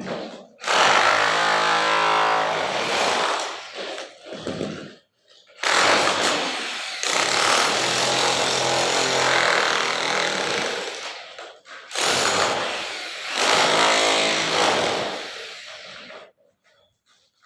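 A jackhammer-type power breaker running in three long bursts with short pauses between them, about five seconds in and near twelve seconds.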